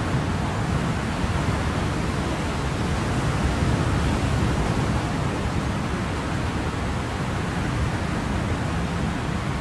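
Ocean surf: a steady, even rush of waves with most of its weight low down and no distinct breaking crashes.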